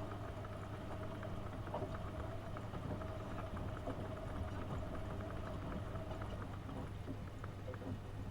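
AEG Öko-Lavamat 72520 washing machine running a wash cycle: a steady motor hum with water sloshing and splashing in the drum.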